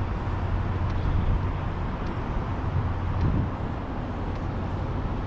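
Steady city traffic noise with a constant low hum underneath.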